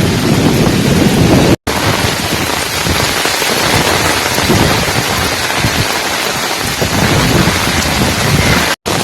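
Heavy windstorm: a loud, dense, steady roar of wind. It cuts out abruptly for an instant twice, about one and a half seconds in and near the end.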